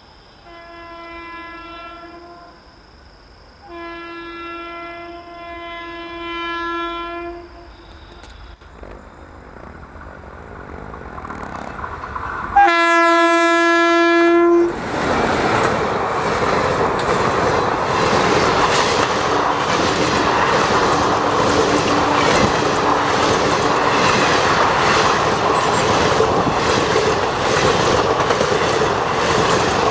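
The horn of a WAP-4 electric locomotive sounds three times as the train approaches, the last blast the loudest and closest. Then the coaches of the Vibhuti Express pass close by, wheels clattering over the rail joints in a steady clickety-clack.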